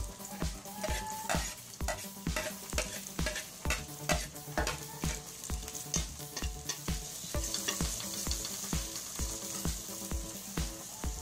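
Sliced red onion sizzling in hot oil in a metal pot. Chopped garlic is tipped in about six seconds in and stirred with a spoon, and the sizzle grows a little after that. Background music with a steady beat of about two pulses a second plays throughout.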